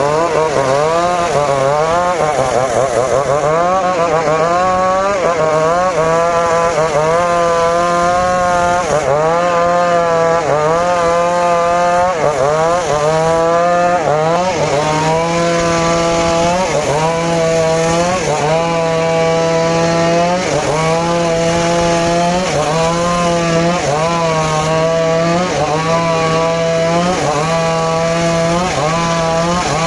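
Engine-driven circular sawmill cutting mahogany and waru timber; the running pitch sags under the load of the cut and recovers over and over, about once every second and a half.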